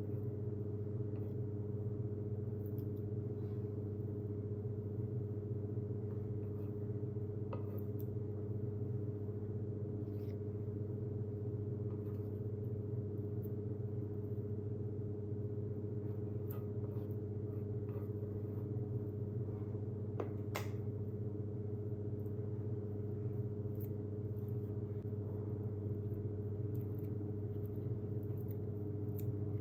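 A steady low hum, like a motor or appliance running, with a few faint light clicks and one sharper click about twenty seconds in.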